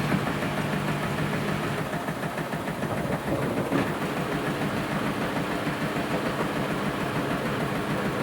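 Washing machine running mid-program: a steady motor hum that shifts to a different pitch about three seconds in.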